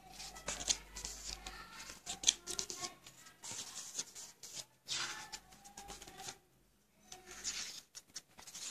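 Paper pages of a bird field guide rustling as they are leafed through, in short irregular bursts with a brief pause near the end.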